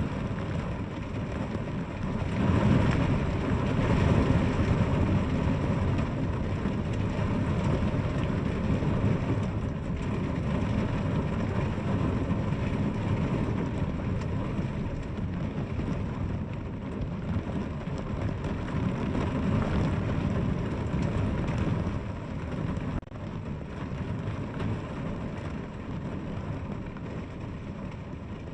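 Heavy, steady rainfall, a dense hiss with a deep low rumble under it. It swells louder a couple of seconds in and drops briefly about three quarters of the way through.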